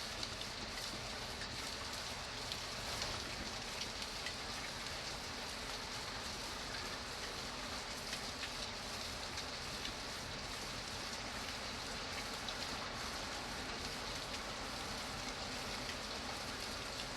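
Steady rainfall, with many small drops ticking on a surface through a constant hiss.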